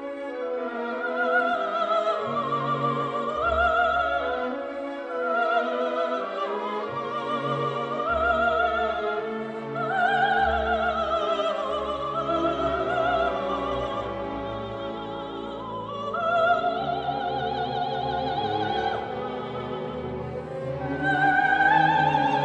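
Background music: operatic singing with a wide vibrato, held notes rising and falling over orchestral accompaniment.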